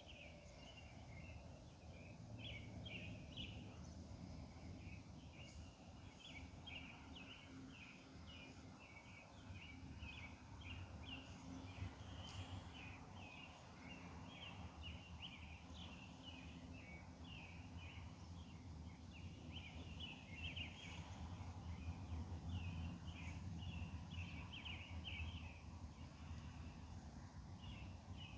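Faint outdoor night chorus of rapid, rasping pulsed calls, repeating continuously in short clusters, over a low steady hum.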